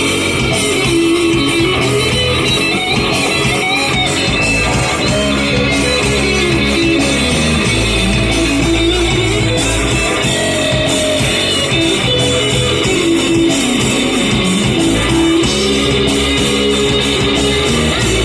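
Guitar-led rock music, with electric guitar and bass guitar playing steadily and loudly, including some gliding guitar notes.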